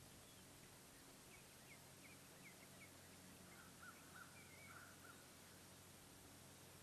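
Faint bird calls over a steady low hiss: a run of short, quick chirps from about a second in, then a lower warbling call a little past the middle.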